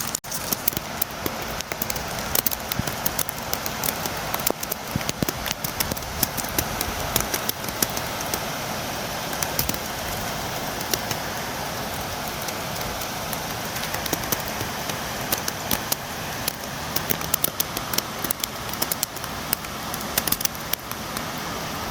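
Steady rain falling: a constant hiss with many sharp, irregular drop taps, the patter of rain striking a window and the surfaces around it.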